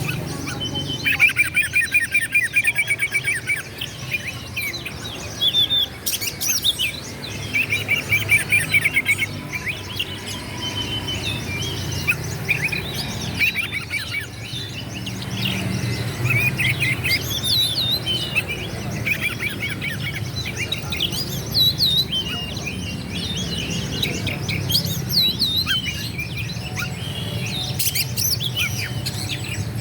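Oriental magpie-robin (kacer) singing continuously in varied whistled phrases, with fast rattling trills in places, over a low steady hum.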